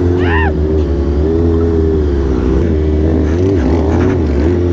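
Kawasaki Ninja 636 inline-four motorcycle engine running steadily, its pitch wavering slightly with small throttle changes.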